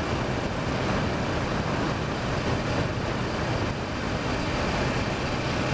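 Strong gusty wind rushing over the microphone of a motorcycle on the move, a steady dense noise that covers the engine.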